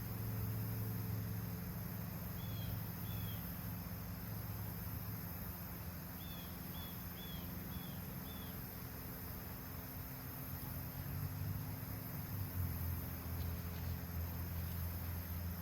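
Steady high insect trilling over a low rumble. A small bird gives two short chirps about two and a half seconds in, then a quick run of five about six seconds in.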